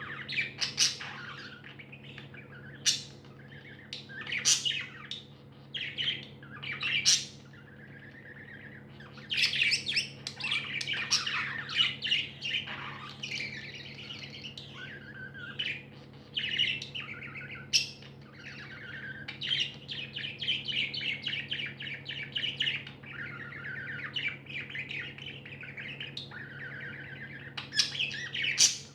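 Several pet budgerigars chattering and warbling, with frequent sharp chirps and squawks cutting through. A steady low hum runs underneath.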